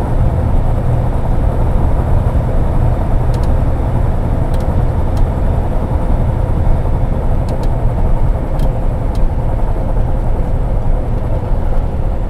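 Semi tractor running down the road without a trailer, its diesel engine and road noise a steady low rumble heard from inside the cab, with a few faint clicks.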